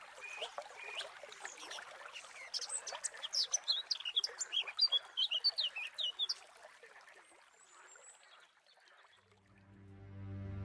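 A songbird singing a quick run of short, sharp chirps over a steady trickle of running water. The song stops after about six seconds, and music fades in near the end.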